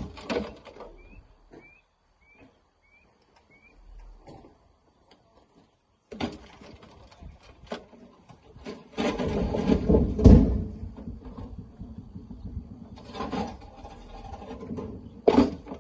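Sharp knocks and irregular clattering of rocks being handled and thrown into a dump truck, with a heavier rumbling clatter in the middle. A few short rising chirps sound in the first seconds.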